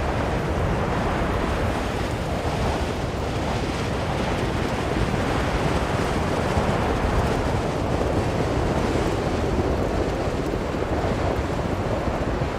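Blizzard wind blowing strongly and steadily, a dense rushing noise that swells a little in the middle.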